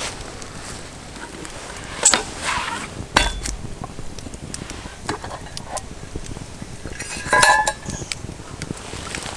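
Metal cookware and utensils clinking and knocking in a few separate strikes, with a louder ringing rattle about three-quarters of the way through.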